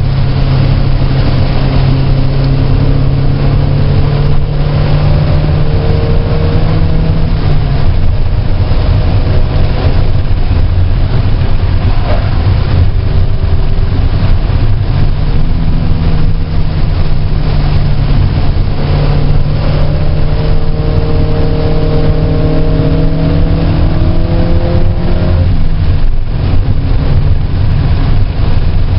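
A car's engine heard from on board while lapping a race track, loud throughout. Its note rises and falls with throttle and gear changes: it drops about a quarter of the way in, picks up again about halfway, and drops again near the end, over steady road and wind noise.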